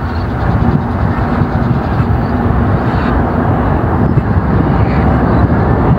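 Loud, steady rumble of a train running along the track.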